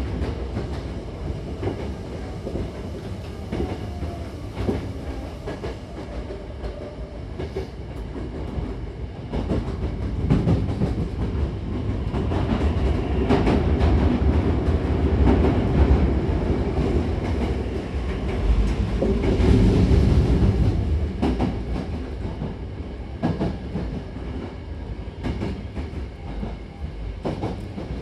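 Interior sound of a Hankyu 9000-series electric commuter train running: a steady low rumble of wheels on rail with frequent clicks as the wheels cross rail joints. It grows louder about midway, then eases again.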